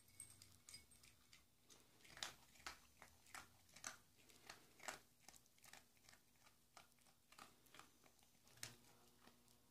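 A dog chewing dry kibble: a run of faint, irregular crunches, about two a second.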